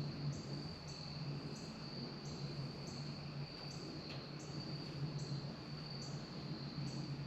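Faint insect chirping: a steady high trill with a short chirp about every two-thirds of a second, over a low steady hum.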